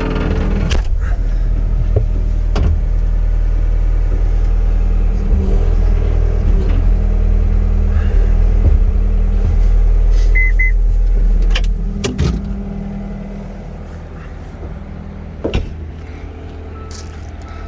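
A John Deere 324E skid steer's Yanmar 3.3 L four-cylinder diesel running with a steady low drone. It drops to a quieter, lower run about twelve seconds in. Several sharp knocks or clanks sound over it, and a brief high beep comes near the ten-second mark.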